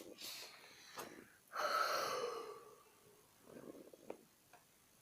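A long breathy exhale about a second and a half in, with a few faint clicks of plastic Lego pieces being handled.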